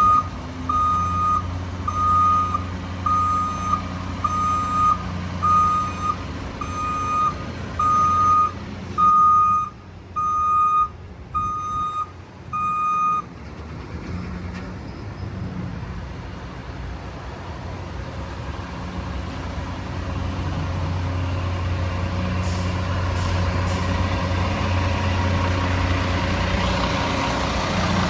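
Front loader garbage truck's reversing alarm beeping steadily, a little more than once a second, over the running truck. The beeping stops about halfway through, and the truck keeps running, growing louder toward the end.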